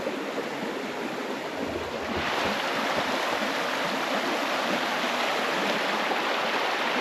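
Rushing water, a steady noise that gets suddenly louder about two seconds in.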